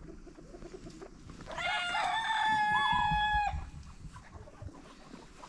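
A rooster crowing once: one call about two seconds long, starting about one and a half seconds in, rising and then held on a long steady note.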